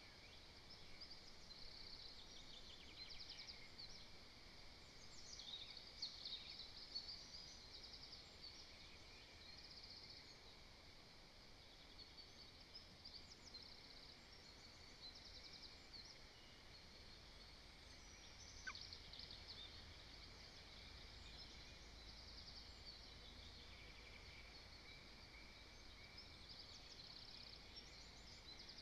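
Faint woodland birdsong from small songbirds: scattered chirps and quick trills overlapping throughout, over a soft hiss of outdoor background noise.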